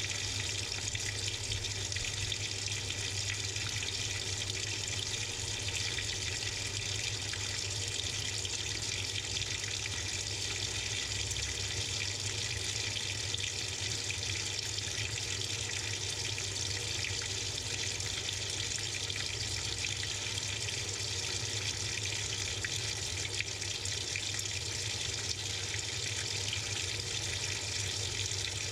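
Water pouring steadily into the drum of a Samsung 6.5 kg top-load washing machine as it fills, heard from inside the drum, with a steady low hum underneath.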